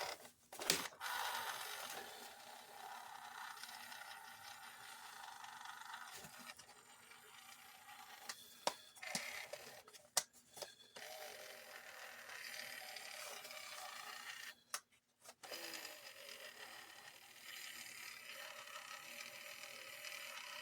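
A battery-powered plastic robot toy running, its small electric motor and gears whirring faintly and steadily, with a few sharp clicks and two short breaks.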